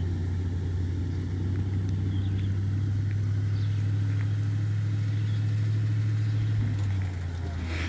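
Truck engine running steadily under heavy load as it tows a travel trailer through soft ground, a constant low drone that eases off near the end.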